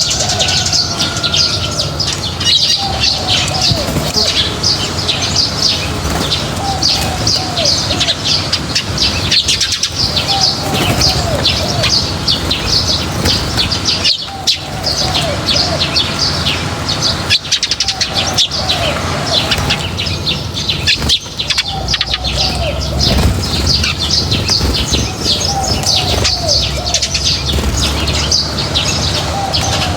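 A flock of small birds chirping continuously in a dense chatter, with a lower call repeating about every two seconds over a low steady rumble.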